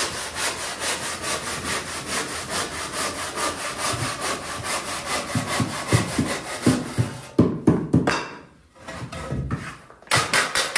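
Hand saw cutting with quick, even back-and-forth strokes, about four a second. The sawing stops about seven seconds in, a few knocks follow, and then it starts again near the end.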